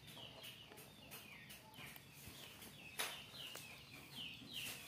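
Faint, steady run of short high bird chirps, each falling in pitch, a little over two a second, with one sharp click about three seconds in.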